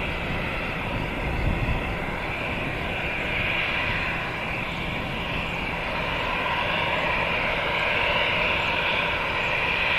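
Airbus A319 jet airliner taxiing, its engines running at taxi power with a steady whine that grows a little louder in the second half.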